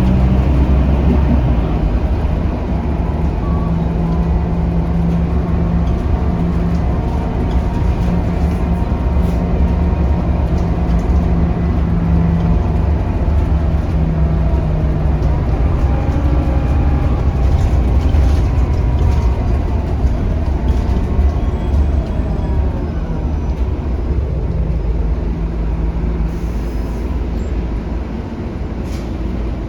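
Scania K310UB city bus heard from inside while under way: the five-cylinder diesel's steady low drone, with a transmission whine that rises and falls as the bus speeds up and slows.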